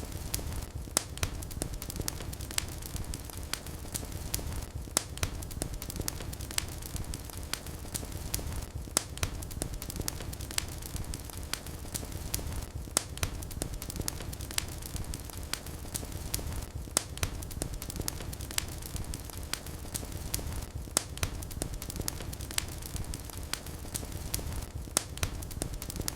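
Wood fire in a fireplace crackling: frequent sharp pops and snaps over a steady low rumble of burning.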